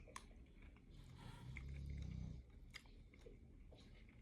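A person chewing apple pie and ice cream close to the microphone, with small wet mouth clicks. About a second in comes a low hum lasting about a second.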